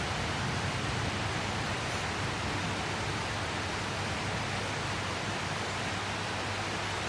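Steady heavy rain, an even hiss that does not change, with a low hum underneath.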